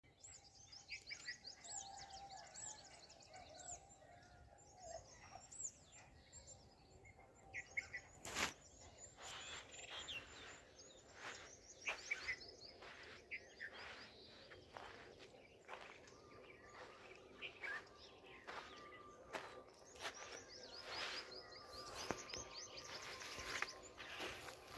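Small birds chirping, with quick high calls repeated over and over, and a few sharp clicks between them, the loudest about eight seconds in.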